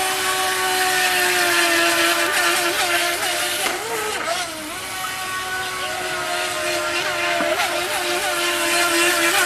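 Mini RC racing boat's small 370 electric motor whining at speed, steady in pitch but dipping and wobbling briefly several times as the throttle eases and the boat turns, the biggest dip about four seconds in, over a hiss.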